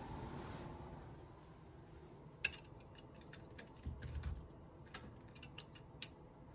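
A series of small sharp clicks and taps, about a dozen spread over a few seconds and starting about two and a half seconds in, with a dull low knock near the middle, over faint room hum.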